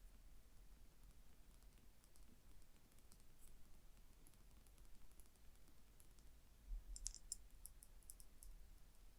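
Gentle tapping on a small object, heard as faint, light clicks, with a quicker, louder run of taps about seven seconds in.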